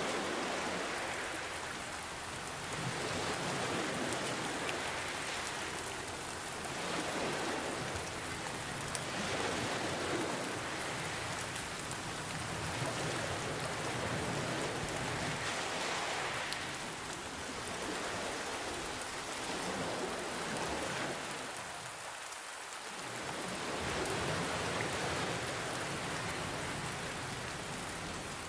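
Steady rain mixed with ocean waves. The rain hiss swells and fades slowly every few seconds as the waves come in.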